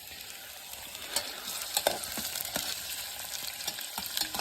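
Food frying in hot oil in a pan: a steady sizzle with scattered sharp pops and crackles.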